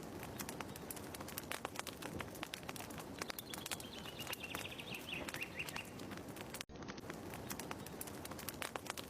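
Wood fire crackling with dense, irregular pops, with a bird chirping a quick run of short notes in the middle. The sound cuts out for an instant about two-thirds of the way through.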